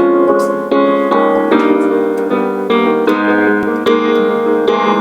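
Piano playing a Cantonese pop song's tune, notes and chords struck every half second or so and left to ring, the tune to be guessed in a song-guessing game.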